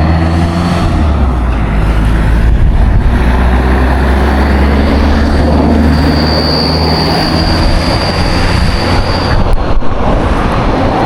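Road vehicle noise: a steady low rumble with a high-pitched whine from about four to nine seconds in.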